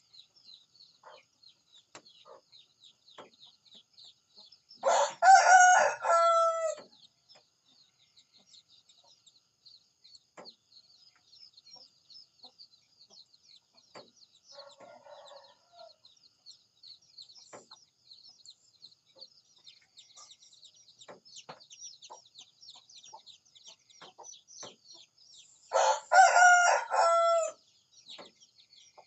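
A rooster crowing twice, two long cock-a-doodle-doo calls about twenty seconds apart, with a fainter short call between them. High, fast chirping runs on steadily in the background.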